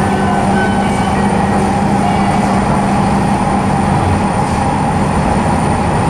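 Interior cabin noise of an E7 series Shinkansen running: a steady rumble of wheels and running gear with a steady hum over it. A lower hum tone fades out about four seconds in.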